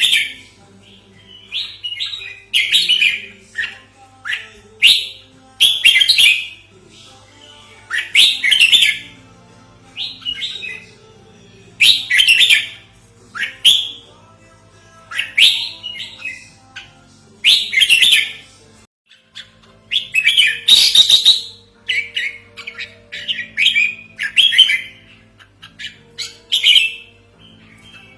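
Red-whiskered bulbul calling: short, loud, bubbly chirping phrases repeated every second or two, a lure call of the bird. Faint steady low tones run underneath.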